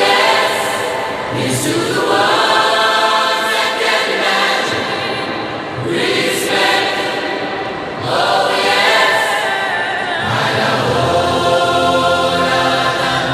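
Music: a choir singing in long held phrases.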